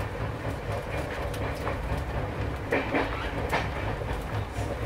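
Duronto Express passenger train running on the rails: a steady low rumble with irregular sharp clacks of the wheels over rail joints, the loudest a few coming together in the middle.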